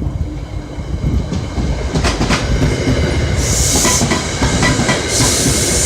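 A train passing close by: a steady rumble with wheels clacking over the rail joints, and bursts of high hiss in the second half.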